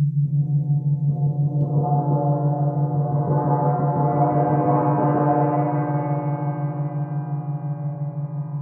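Sound-healing instruments ringing: a low drone that pulses steadily, with a swell of many ringing overtones that builds over the first five seconds and then slowly fades.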